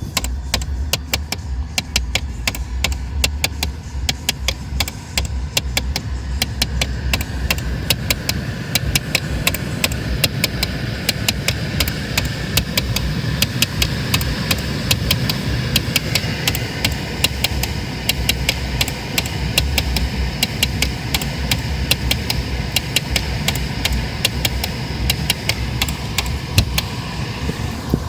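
Rapid, irregular clicking rattle from behind the glove box of a Honda N-Box, many clicks a second without let-up, over the low hum of the idling engine. It is an abnormal noise whose cause the owner does not know.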